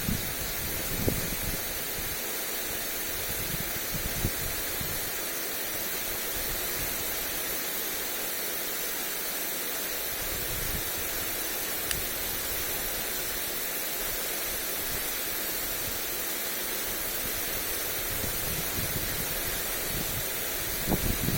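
Lawn sprinkler spraying water onto grass: a steady, even hiss. A few short low buffets of wind on the microphone come about a second in, around four seconds in, and near the end.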